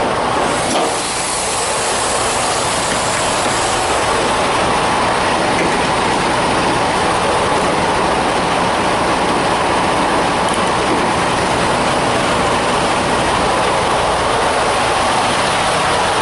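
Steady, unchanging noise of a vehicle on the move.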